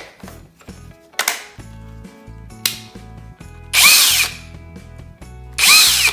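EnerTwist 20-volt brushless cordless drill triggered in short bursts: two brief blips, then two louder runs of about half a second each, the motor whine rising as it spins up and falling as it coasts down. It is on speed setting 2, and sounds really powerful.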